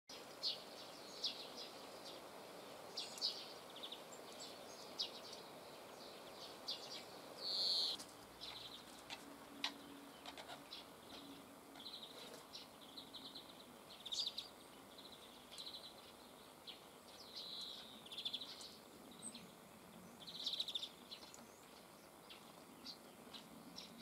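Birds calling: many short, high chirps and brief trilled notes scattered throughout, with a louder burst about seven and a half seconds in.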